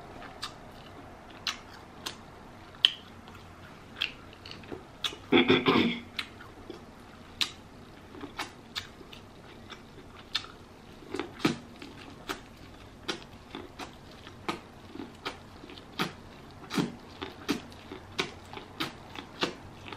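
Close-miked eating sounds: wet chewing, biting and lip smacks as corn on the cob from a seafood boil is bitten and chewed, in many short sharp clicks with one louder, longer mouth sound about five and a half seconds in.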